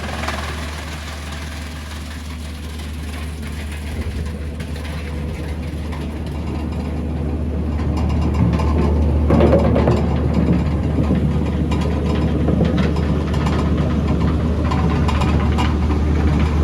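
Wood chipper running steadily with a deep hum, growing louder and rougher about halfway through.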